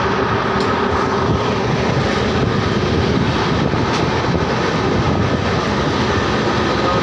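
A passenger train running at speed: a steady rumble of wheels on rail with a faint hum in it, heard at the coach's open doorway.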